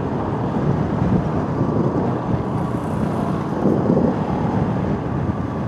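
Motorcycle on the move: steady engine and road noise mixed with wind on the microphone.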